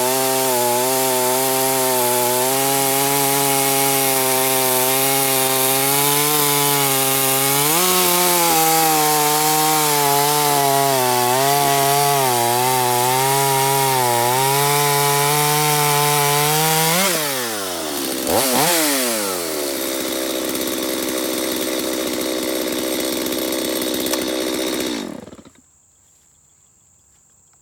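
Stihl MS250 two-stroke chainsaw with a resharpened, worn 18-inch chain running under load as it cuts through a dry ash log. About 17 s in the engine revs up and falls back as the cut finishes, idles, and is shut off about 25 s in.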